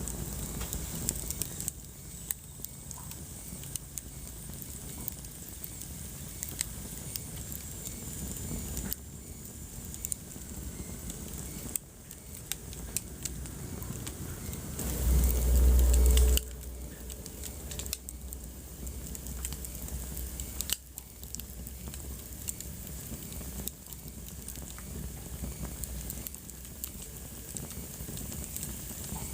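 Wood fire crackling in a fireplace, with frequent small sharp pops and snaps over a soft hiss. About halfway through, a loud low rumble lasts just over a second and cuts off abruptly.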